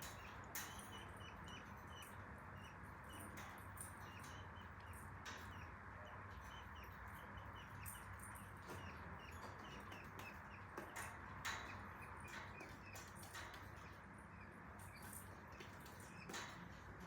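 Budgerigar chattering with a steady run of quick, short chirps, mixed with scattered sharp clicks and taps.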